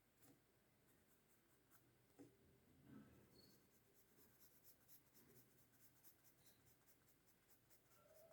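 Faint pencil strokes scratching on paper while shading, a quick run of short strokes at about three or four a second, with a couple of small knocks early in the run.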